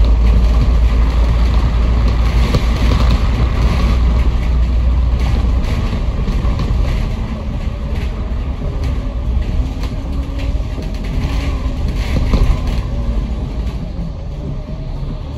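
Bus in motion heard from inside the cabin: a heavy low rumble of engine and road, with an engine note that rises and falls. The rumble eases after about six seconds.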